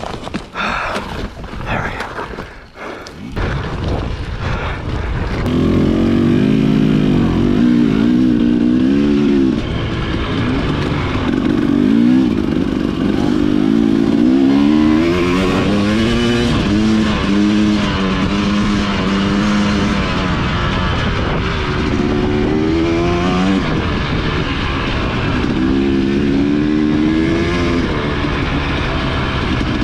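Dirt bike engine running under way, its revs rising and falling again and again with throttle and gear changes, after a few sharp knocks in the first seconds.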